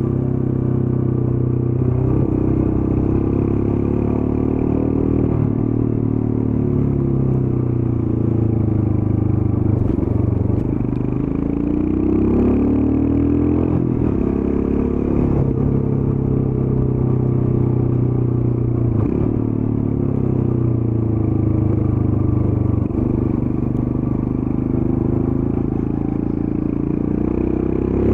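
Royal Enfield Scram 411's air-cooled single-cylinder engine running through the stock exhaust while the bike is ridden. Its pitch dips and then climbs again about a third of the way in, and climbs again near the end.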